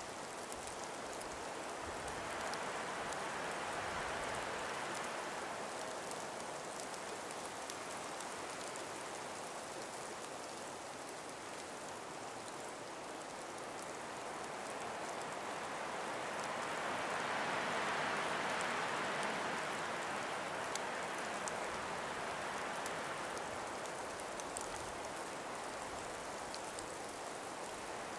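Calm breeze moving through ice- and snow-laden forest trees: a steady, soft hiss that swells a few seconds in and again about two-thirds of the way through, with faint scattered ticks.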